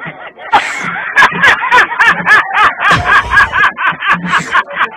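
A man laughing in rapid, repeated pitched bursts, about four to five a second.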